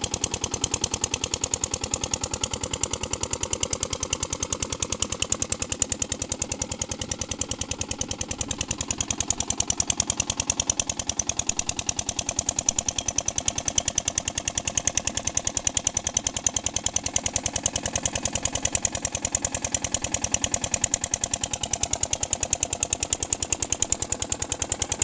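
Kirloskar stationary diesel engine running a water pump at a steady speed, its exhaust beating in a fast, even knock.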